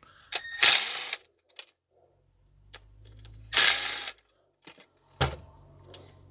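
Metal and plastic parts of a dismantled vacuum cleaner motor being handled: scattered clicks and knocks, with two louder scraping rustles, one about a second in and one near the middle.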